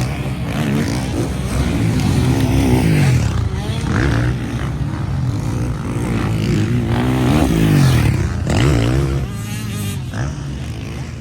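Several motocross bikes racing, their engines revving up and down in pitch as they pass, overlapping one another.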